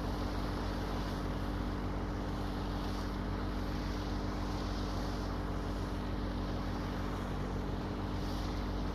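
Tractor engine running steadily at one even speed, with no revving.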